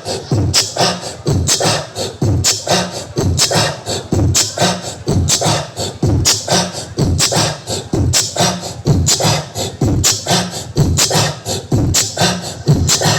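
Music with a heavy, punchy beat and deep bass, played loud through a competition mini sound system's loudspeakers.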